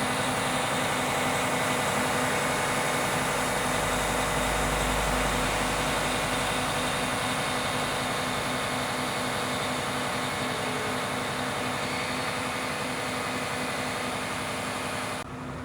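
Aerial ladder truck's engine running with a steady mechanical drone and hum, cutting off abruptly shortly before the end.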